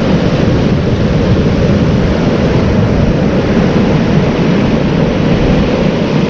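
Steady wind buffeting the microphone over breaking surf, with the outboard motors of a ski boat running in the breakers.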